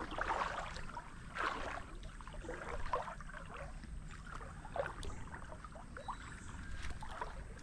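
Shallow creek water sloshing and trickling, in uneven splashes about every second or so, over a low rumble.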